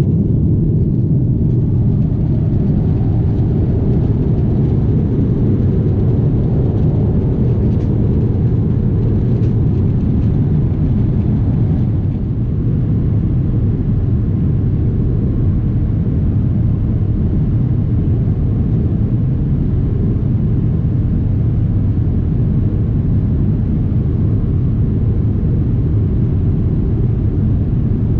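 Steady low rumble of a Boeing 777-300ER's cabin in flight, engine and airflow noise heard from an economy seat.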